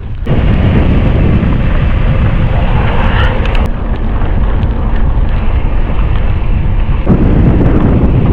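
Heavy wind buffeting on the microphone of a camera riding on a mountain bike at speed, mixed with tyre and trail noise. It jumps up suddenly right at the start and stays loud, with a few faint clicks a few seconds in.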